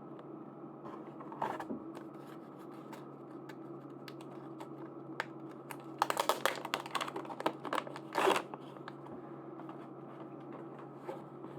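Hands opening and handling small plastic packaging: scattered light clicks and crinkles, with a short burst about a second and a half in and the busiest handling between about six and eight and a half seconds in.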